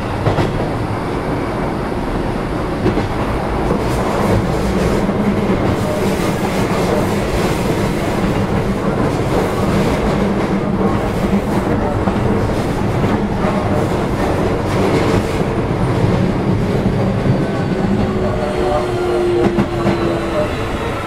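Keio 7000 series electric commuter train running at speed, heard inside a passenger car: a steady rumble with wheels clicking over rail joints. Near the end a falling whine comes in as the train begins to slow.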